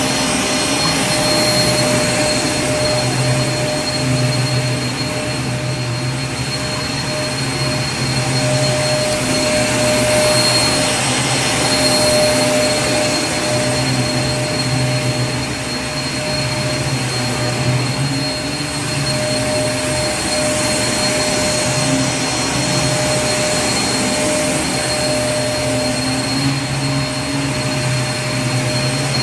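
Vacuum cleaner running steadily: a constant rushing noise with a steady high whine, swelling and easing slightly.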